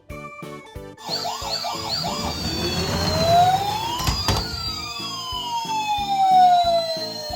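Siren sounding over children's background music with a steady beat: a quick warbling yelp for about a second, then a long wail that rises and slowly falls.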